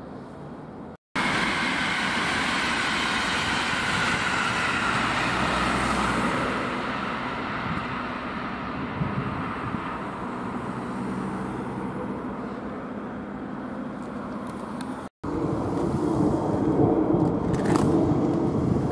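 A passenger train running past on the tracks: a steady rumble with a whine that falls in pitch over several seconds. After a cut near the end, a jet airliner passes overhead with a louder low roar.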